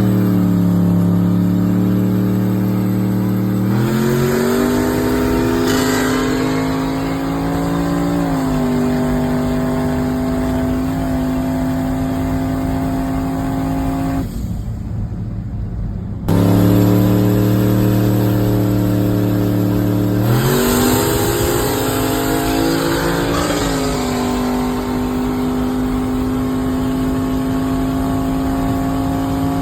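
Suzuki Hayabusa motorcycle engine running hard at high revs during a pull. Its pitch steps up and holds, cuts off about halfway through, and a second, similar pull follows.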